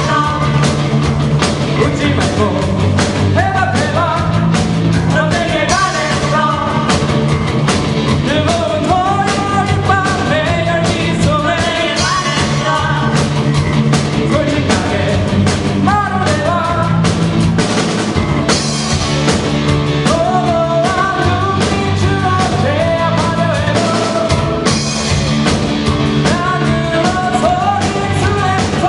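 A rock band playing live: a singer over a drum kit and a steady bass line.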